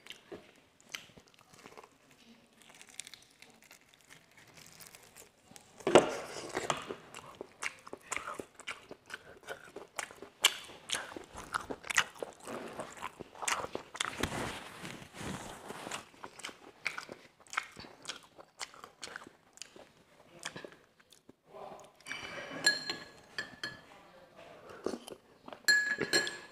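Close-miked eating of crispy homemade fried chicken: crunching bites and chewing, with many short crackles of the coating. The loudest crunch comes about six seconds in.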